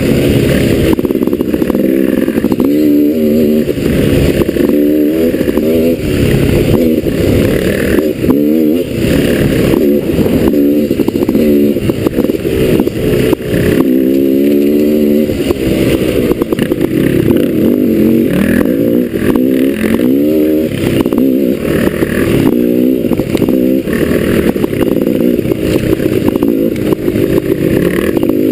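Off-road motorcycle engine revving up and down continually as the rider works the throttle, its pitch climbing and dropping every second or two.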